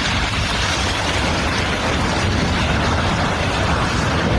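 A loud, steady roar of rushing noise with a heavy low rumble, going on without a break.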